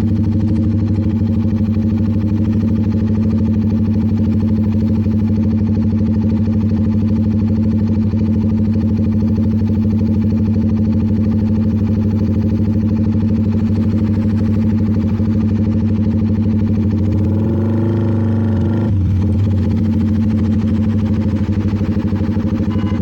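CFMoto 300NK motorcycle's single-cylinder engine running steadily at cruising speed. About three quarters of the way through, its pitch briefly wavers and shifts before settling again.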